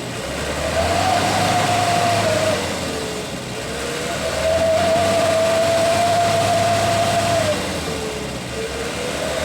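Dump truck engine running under load, its pitch holding high, dropping twice and rising again.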